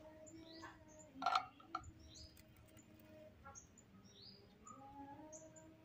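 Small birds chirping over and over, short high chirps every half second or so, over a faint steady hum. A sharp clack about a second in is the loudest sound.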